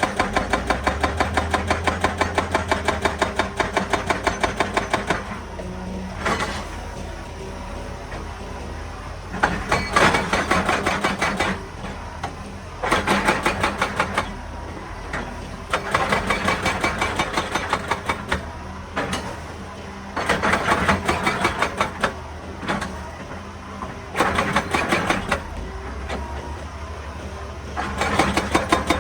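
Hydraulic rock breaker on a Hitachi EX200 excavator hammering rock in repeated bursts of rapid blows lasting a few seconds each, with the diesel engine running steadily in the pauses between bursts.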